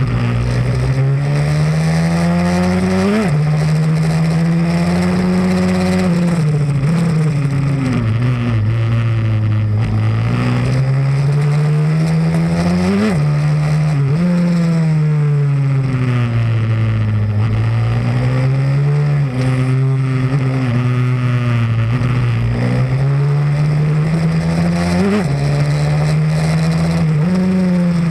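Pit bike's single-cylinder engine running hard, its pitch climbing under throttle and sinking off the throttle over and over, with quick sharp dips at gear changes about three seconds in, about thirteen seconds in and near the end.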